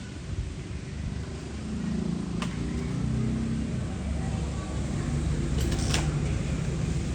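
Chainsaw engine running at low speed, a low rumble that slowly grows louder.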